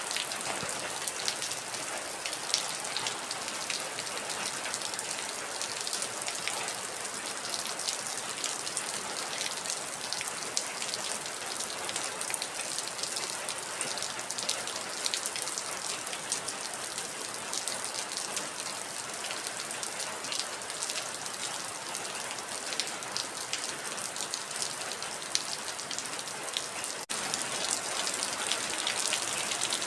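Heavy rain falling steadily, a dense hiss full of sharp drop impacts, with no thunder. It breaks off for a split second near the end and comes back slightly louder.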